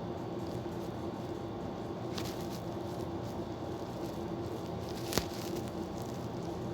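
Steady outdoor background noise with a faint low hum, and a single sharp click a little after five seconds in.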